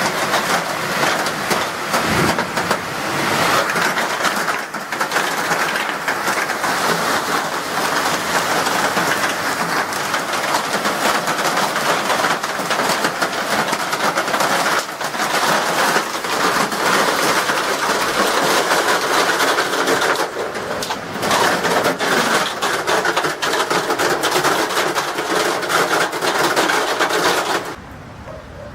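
Hailstorm: hailstones drumming hard and fast on a surface, a dense clatter of countless small impacts over a steady rush of storm noise. It cuts off suddenly near the end.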